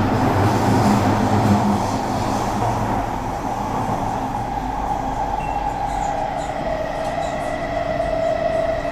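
Onboard running noise of a Kawasaki-Sifang C151A metro train: a steady rumble of wheels on rail under a strong whine from the drive that slowly falls in pitch, as it does when the train slows.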